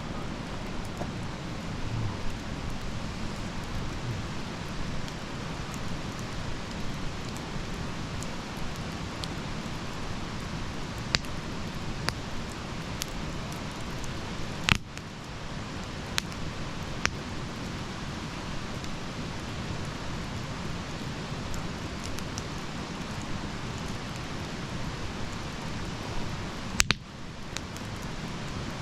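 Wood fire burning: a steady hiss with scattered sharp crackles and pops, the loudest pop about halfway through and a pair close together near the end.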